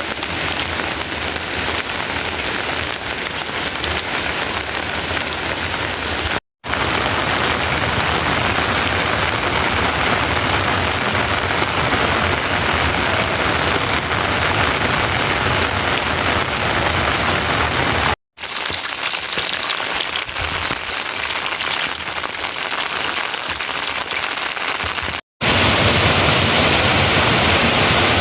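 Steady heavy rain falling, a continuous hiss, broken three times by a brief drop-out where one clip cuts to the next.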